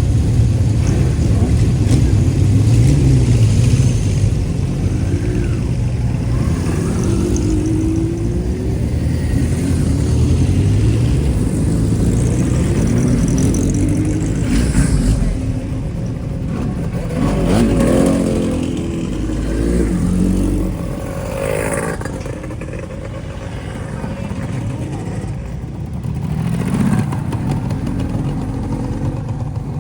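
Exhausts of classic inline-four motorcycles, a Kawasaki Z2 and a Honda CB750 Four, being revved up and down again and again.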